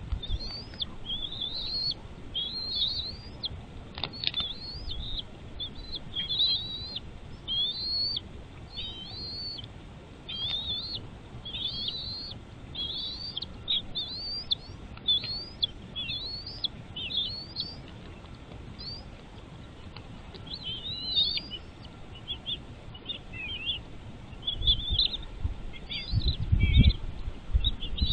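Bald eagle calling from the nest: a long series of high, thin, sliding chirps, about one a second, then a looser run of varied chittering calls. A low rumble comes in near the end.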